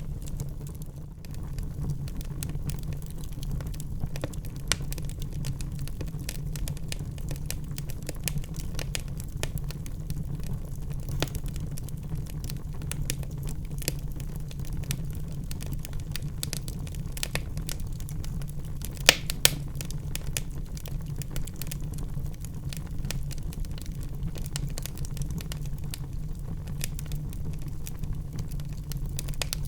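Wood fire burning in a fireplace, crackling steadily over a low rumble, with many small snaps and a loud double pop about 19 seconds in.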